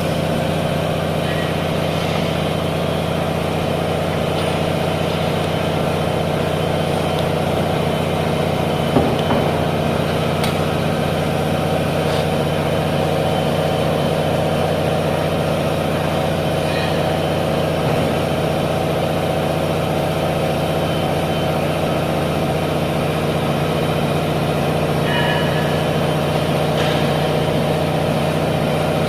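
Steady, unchanging hum of running machinery, with a few faint clicks now and then.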